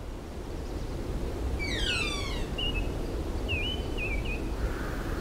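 Birds calling over a steady low rumble: a quick run of falling calls about two seconds in, then a few short chirps.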